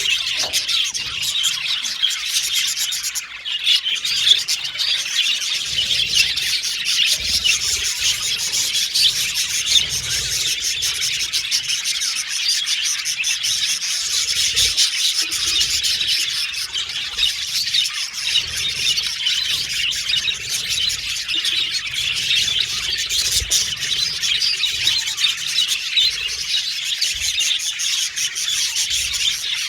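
Budgerigars chirping and warbling without a break, many short calls overlapping.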